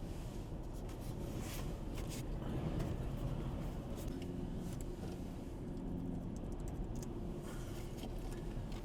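Strong dust-storm wind buffeting the microphone as a steady low rumble, with scattered ticks and scrapes and a faint hum underneath.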